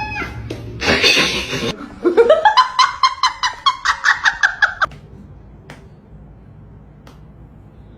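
High-pitched rapid laughter, a quick string of 'heh' pulses about six a second that rises in pitch and then holds, stopping about five seconds in. It is preceded by a short pitched cry and a brief burst of noise.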